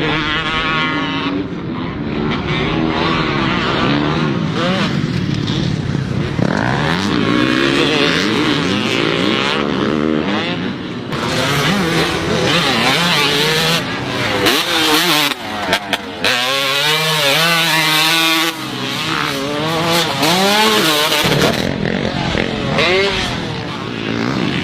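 Motocross bike engine running and being revved up and down again and again while it is warmed up.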